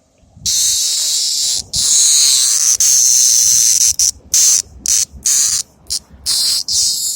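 Cicada buzzing loudly in stop-start bursts: a long buzz of about a second, then one of about two seconds, then a string of shorter buzzes broken by brief gaps.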